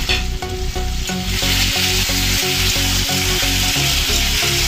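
Sliced tomatoes and onions sizzling in hot mustard oil in a metal kadai as they are stirred. The sizzle is thinner at first and comes back strongly about a second and a half in. Background music with repeating notes plays underneath.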